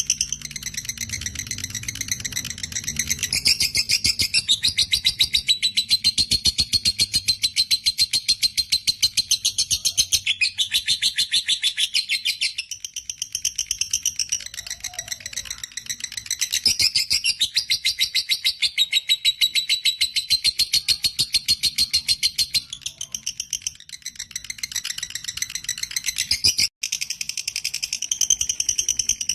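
Lovebird ngekek: a long, unbroken run of rapid, high chattering calls, many per second, cutting out for an instant near the end.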